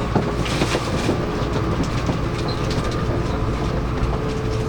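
Tokaido Shinkansen train running, heard inside the passenger car: a steady rumble with scattered small clicks and rattles, and a steady hum that comes in near the end.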